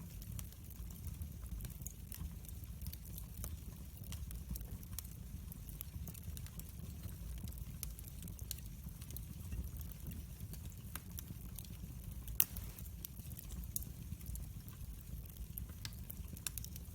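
Fire crackling in a fireplace: scattered small pops and clicks over a low steady rumble, with one sharper pop about twelve seconds in.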